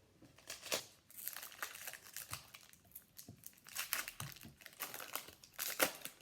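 Crinkling of a trading-card pack wrapper being handled and torn open, an irregular run of crackles.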